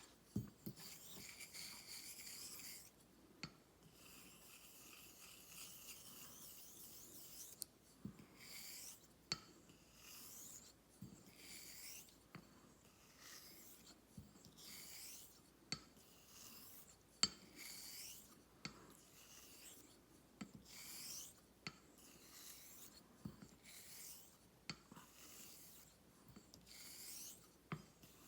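Straight razor being honed on a whetstone: repeated hissing strokes of the blade edge across the wet stone, about one a second, with a sharp click between strokes as the razor is flipped over on its spine.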